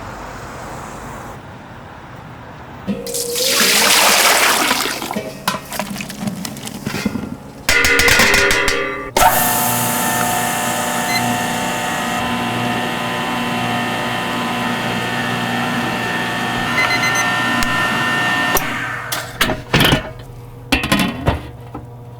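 Liquid running in a loud rush for about two seconds, then clattering, then a steady hum with several steady tones lasting about ten seconds, ending with a few sharp knocks.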